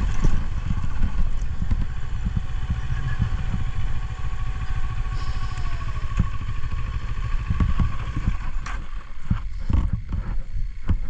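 Adventure motorcycle running as it works up a rough forest trail, with heavy rumble. Its steady engine note drops slightly about six seconds in, and a few knocks come near the end.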